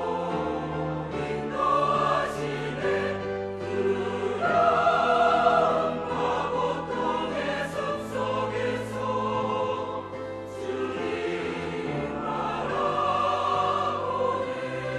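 Church choir singing a sacred anthem, with long held notes that swell and shift.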